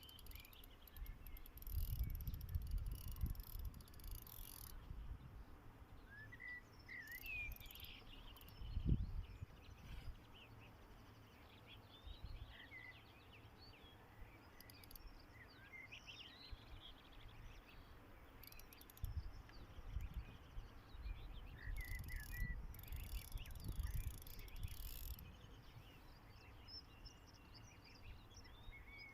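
Outdoor ambience: birds singing in short, scattered chirps. Twice it is overlaid by stretches of low rumbling noise with a high hiss, about a second in and again past the middle.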